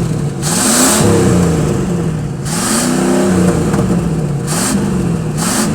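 Pickup truck engine revved through a Cherry Bomb muffler with the catalytic converter cut off. The engine climbs and drops in pitch about four times, with a loud exhaust note at each peak.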